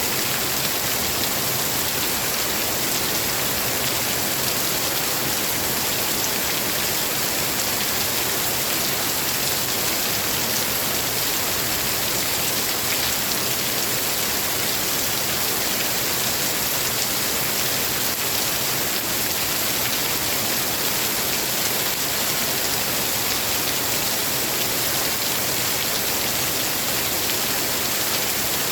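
Steady rain falling, an even hiss that holds constant with no thunder.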